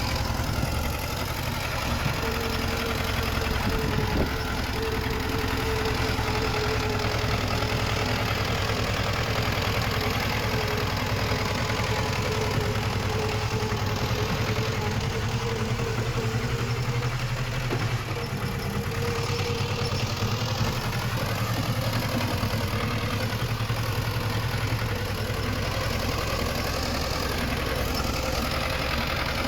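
Diesel engine of heavy earthmoving machinery running steadily, with a low hum throughout and a steady higher whine that fades out a little over halfway through.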